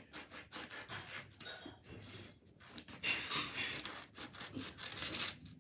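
Paper rustling and scraping as a sheet is handled and cut, in a run of short strokes that grow louder for a couple of seconds past the middle.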